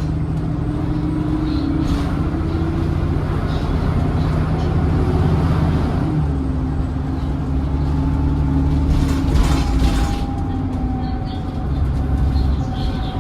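Double-decker bus engine running steadily under way, with a thin high whine above it that falls slowly in pitch over the last few seconds. The engine's pitch steps down about six seconds in.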